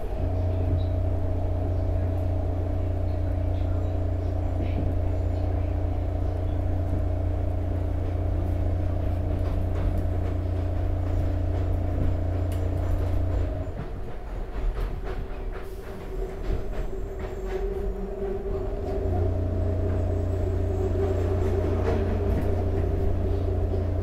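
Market–Frankford Line train heard from inside the car: a steady low hum with a motor whine over it while running under power. About halfway the hum and whine drop out for several seconds, leaving the rumble of the wheels with scattered clicks, then come back on.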